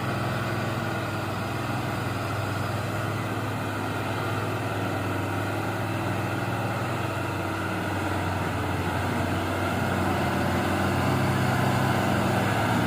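Diesel engine of an orange Mitsubishi Fuso truck running steadily at low revs, growing louder over the last few seconds.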